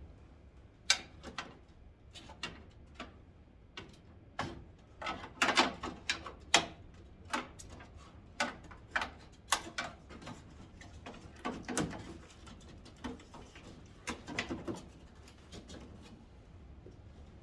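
Hand tools and parts being worked on the truck's headlight assembly: irregular clicks, knocks and scrapes, one to a few a second, busiest in the middle.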